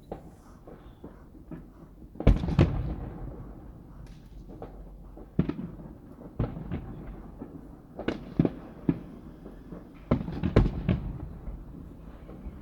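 Aerial fireworks bursting overhead: a series of sharp bangs with rumbling echoes, loudest in clusters a couple of seconds in and again about ten seconds in.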